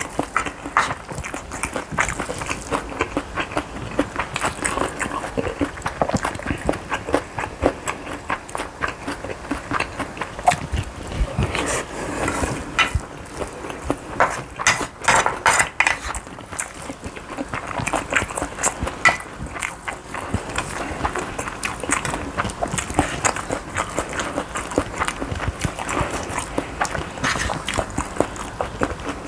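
Close-miked eating sounds: steady chewing with many small wet clicks and smacks of the mouth.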